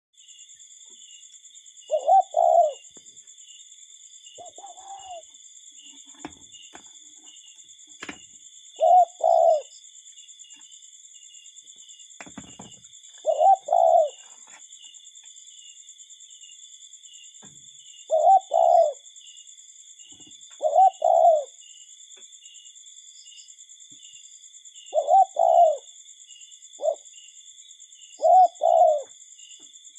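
Common cuckoo calling its two-note "cu-ckoo", the second note lower, about eight times, every three to four seconds. A steady high chirring goes on in the background throughout.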